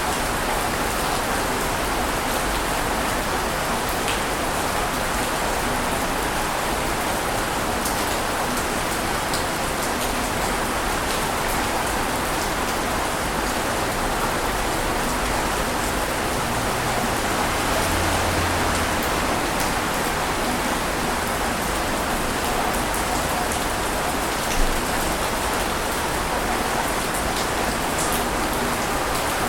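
Steady, even rush of water noise with no rise and fall of breaking waves, and one brief louder tick about 25 seconds in.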